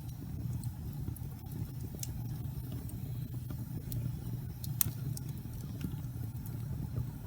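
Wood fire burning in a fireplace: a steady low rumble of flames with scattered faint crackles and pops, the sharpest about five seconds in.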